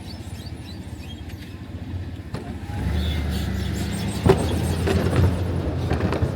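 A motor vehicle's engine running, its low hum growing louder about three seconds in, with a sharp knock a little after.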